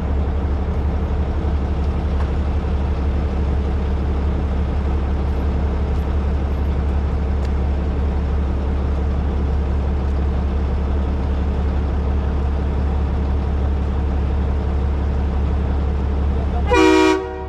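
Heavy rotator tow truck's diesel engine running steadily, then a short horn toot near the end, after which the engine sound drops lower.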